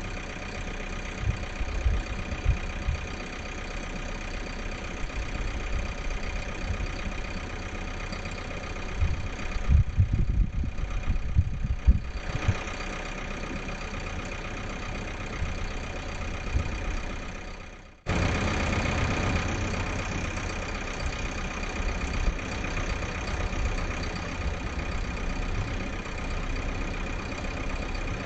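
Tri-axle dump truck loaded with 26 tons of chert, its diesel engine running steadily as it crosses a bridge, with heavy low thumps about ten to twelve seconds in. The sound fades and cuts out briefly about eighteen seconds in, then comes back a little louder.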